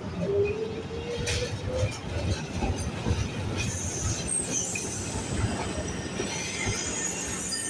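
Tram running on street rails, with a low rumble, a rising tone over the first two seconds, and high-pitched wheel squeal on the rails from about halfway.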